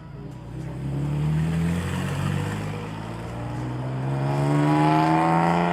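Toyota 4Runner V6 running through a catless custom exhaust with a Dynomax Super Turbo muffler, accelerating hard. The engine pitch climbs, dips once as it shifts up, then climbs again and grows louder near the end.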